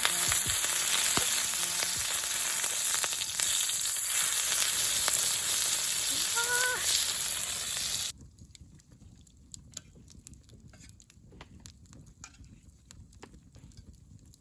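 Food sizzling loudly in a hot pan. About eight seconds in it cuts off suddenly to a much quieter background with faint, scattered crackles and ticks.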